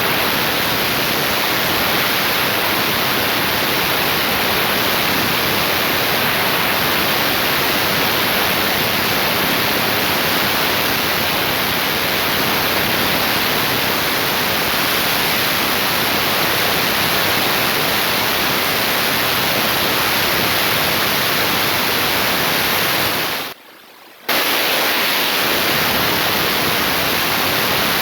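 Heavy rain pouring steadily, an even hiss that briefly cuts out for about half a second late on.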